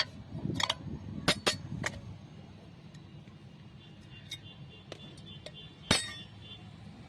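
Sharp metallic clinks and knocks from tools and clutch parts being handled, several close together at first, then sparser. A few of them ring briefly, and the loudest knock comes near the end.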